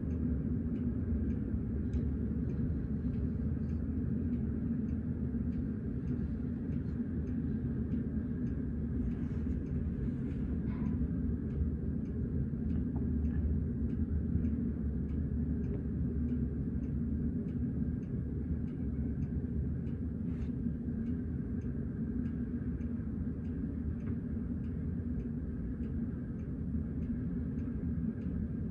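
Freight train of tank cars passing at a distance, a steady low rumble with faint regular clicking about twice a second.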